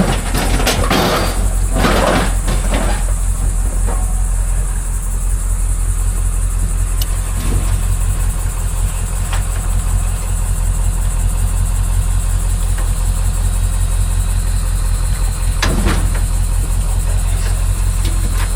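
Steady low drone of a vehicle's engine and road noise, as if heard from inside the cab, with a few rattling bursts in the first few seconds and a single sharp knock near the end.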